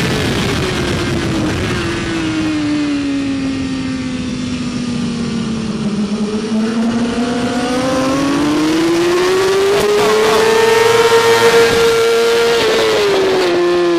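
BMW S1000RR superbike's inline-four engine through a Graves exhaust, heard on board. The revs fall steadily for about six seconds, climb back up over the next six, then drop sharply near the end.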